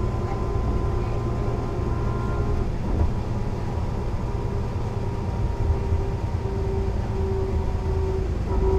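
Interior sound of a Mercedes-Benz O 405 NÜ low-floor intercity bus: its diesel engine and running gear give a steady low rumble with a faint whine. From about two-thirds through a pulsing tone repeats roughly twice a second, and just before the end the engine gets louder as it takes up load.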